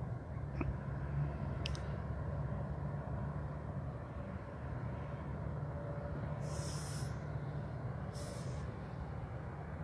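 Steady low outdoor rumble with a faint hum, broken by a few short high hissing bursts about two-thirds of the way in.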